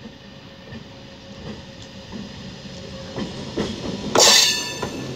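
A MEMU electric multiple-unit train drawing close and passing, growing steadily louder, with wheels clacking over rail joints. A brief loud burst about four seconds in is the loudest sound.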